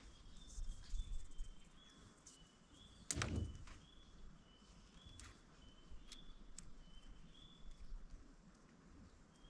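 A small bird chirping repeatedly in short high notes, each a little different in pitch. A single sharp knock about three seconds in, and a few lighter clicks later.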